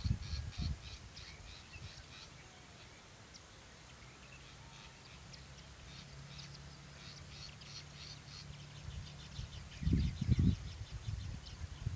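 Small birds chirping in quick, repeated high notes, with a faint low hum in the middle and a couple of loud low rumbles about ten seconds in.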